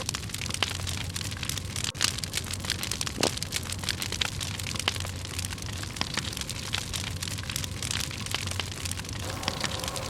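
Dry firewood burning in a campfire, crackling and popping irregularly, with one louder crack about two seconds in.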